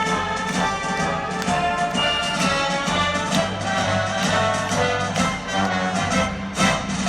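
Live orchestra playing, with strings and brass carrying sustained chords.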